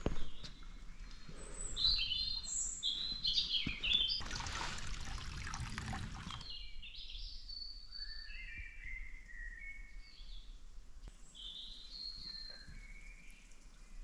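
Songbirds chirping and calling, with many short, varied high notes. For the first half a coarse noise lies under them and grows louder before cutting off suddenly about six and a half seconds in.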